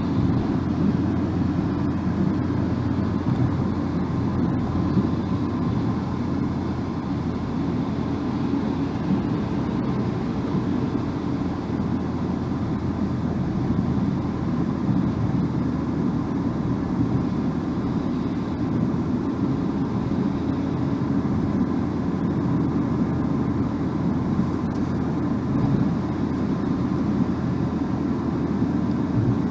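Steady car-cabin driving noise: a low, even rumble of tyres and engine from a car under way, with no changes in speed.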